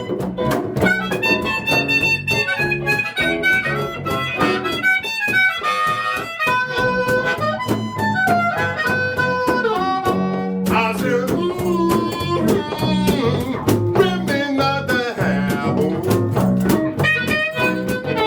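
Blues harmonica playing a melody with pitch bends over a steady rhythmic band accompaniment.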